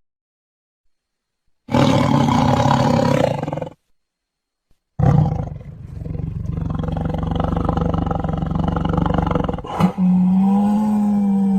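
Loud animal calls separated by silences: a short rough roar about two seconds in, then after a pause a longer rough call, changing near the end into a steady low-pitched call.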